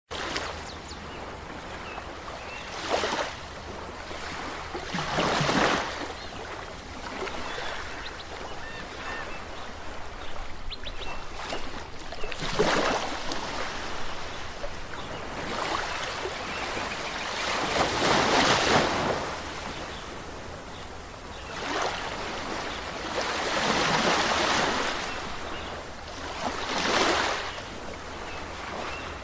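Waves breaking and washing on a shore, the rush swelling every few seconds.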